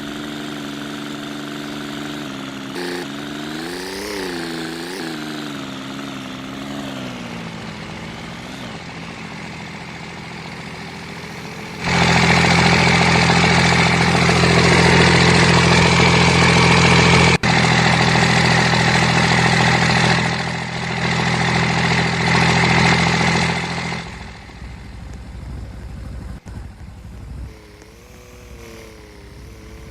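An engine running, its pitch rising and falling a few times, then a much louder steady stretch from about twelve seconds in that cuts off abruptly about twelve seconds later.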